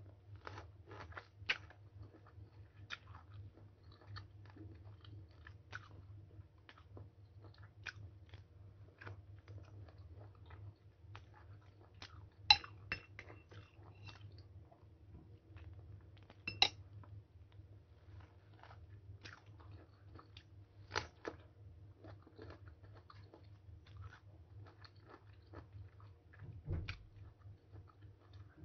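A person biting and chewing mango flesh close to the microphone: irregular small clicks and mouth noises, with two louder ones about twelve and seventeen seconds in, over a faint low hum.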